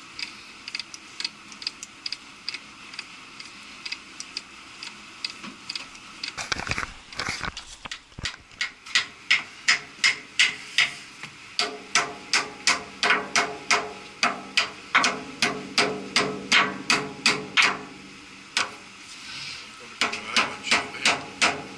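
A rapid, even run of sharp metallic strikes, about two to three a second, from work on the seized fan hub of a cooling tower gear reducer. A steady ringing tone sits under the strikes through the middle stretch, and they pause briefly near the end before starting again.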